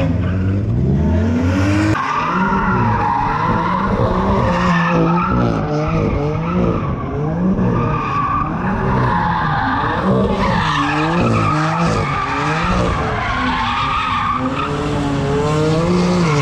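A car engine revving hard, its pitch swinging up and down again and again, while the tyres screech continuously as the wheels spin.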